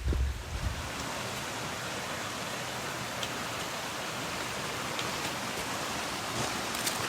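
Steady rushing of water at a shallow creek crossing, with a few faint ticks.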